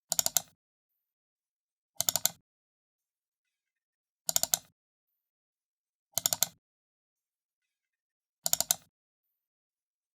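Computer mouse button double-clicked five times, about every two seconds; each double click is a quick cluster of sharp press-and-release clicks.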